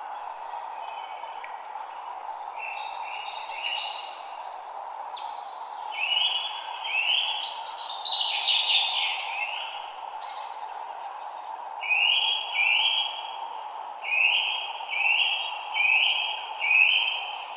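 Several songbirds singing together, overlapping calls and trills over a steady background hiss. In the second half one bird repeats the same short phrase about six times.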